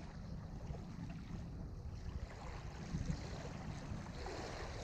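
Wind rumbling on the microphone over faint outdoor ambience, with a few small ticks.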